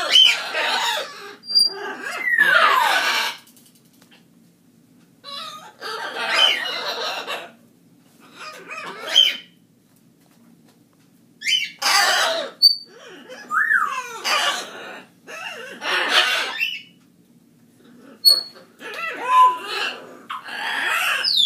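A pet bird calling in a series of harsh squawks about a second long, in bunches with short pauses between. A few whistles are mixed in, one falling and one rising.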